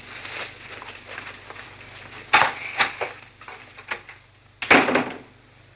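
A few scattered short knocks and clatters, the loudest a cluster just under five seconds in.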